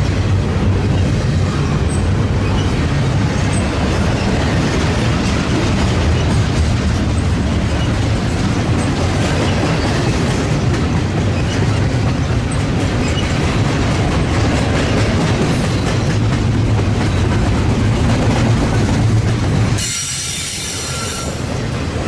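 Double-stack intermodal freight cars rolling past on steel wheels, a steady loud rumble of wheels on rail. Near the end the rumble drops away and a high, ringing wheel squeal takes over for about two seconds.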